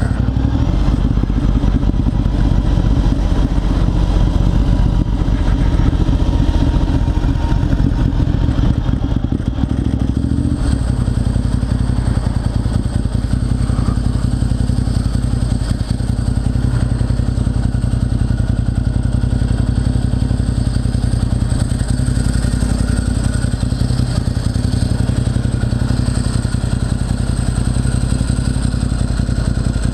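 Motorcycle engine running steadily at low revs, its low note shifting slightly about ten seconds in.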